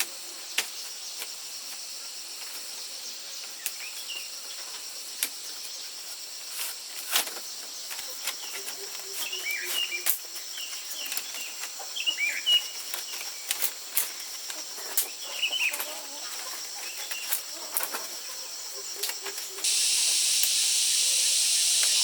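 Scattered sharp clicks and taps over a steady high hiss, with short chirping calls coming and going in the middle. About two seconds before the end, a louder steady hiss comes in suddenly.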